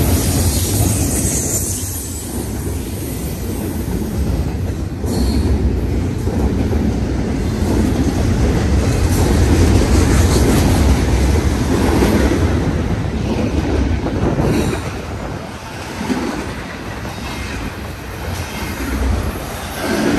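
Union Pacific double-stack intermodal freight train passing close by: a loud, steady rumble of steel wheels on rail from the container well cars, with occasional clacks.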